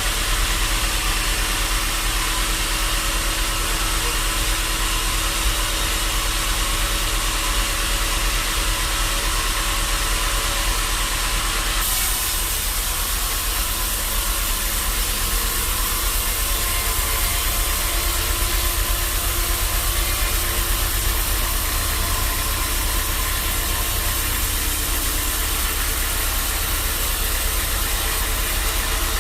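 Band saw sawmill running with a steady mechanical noise and hiss. About twelve seconds in, the hiss turns brighter and stays that way.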